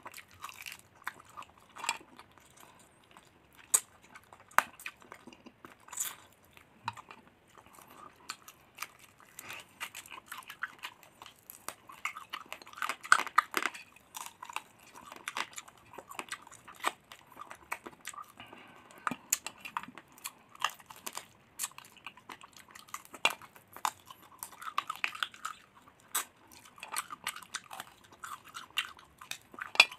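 Close-up chewing and crunching of crispy fried duck in sweet soy sauce, bitten off the bone by hand: irregular sharp crunches of skin and meat between wet chewing, with no pause.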